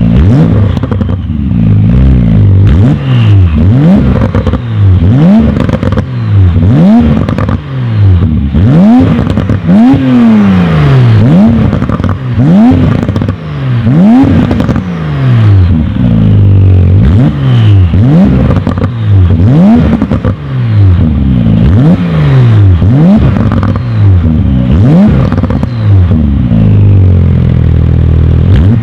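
Porsche 991 Carrera S 3.0-litre twin-turbo flat-six through a Supersprint stainless steel valved cat-back exhaust, revved in quick repeated throttle blips, about one every second or so, each rising and falling sharply. Crackles and pops between the blips.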